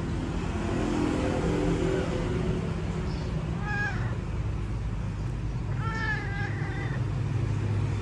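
A cat meowing twice, a short meow about four seconds in and a longer one of about a second near six seconds, over a steady low rumble like a running engine or traffic.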